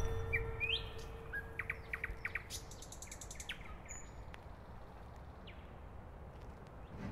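Wild birds chirping and calling: short rising whistles and quick runs of chirps, busiest in the first few seconds.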